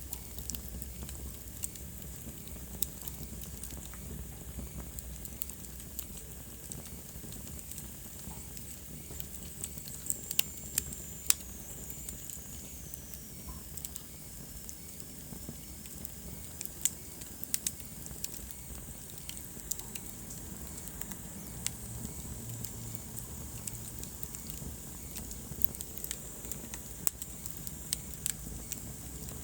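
Wood fire crackling, with irregular sharp pops over a steady low hiss and rumble. A faint high whistle slides down in pitch about ten seconds in.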